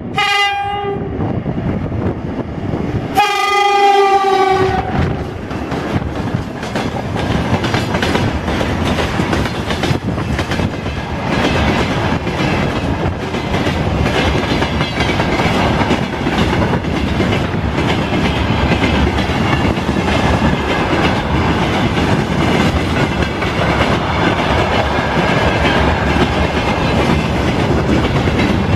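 Loud horn of a 2ES10 'Granit' electric locomotive: a short blast at the start, then a longer one a few seconds in. Then the train rolls past, wheels clattering on the rails.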